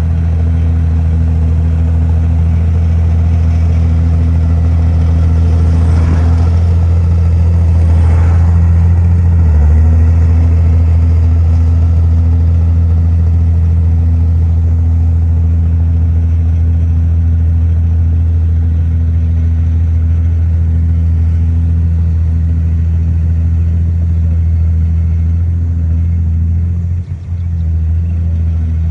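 Heavy diesel engine of earthmoving machinery running steadily and loud, with a short burst of rougher noise about six and again about eight seconds in and a brief drop near the end.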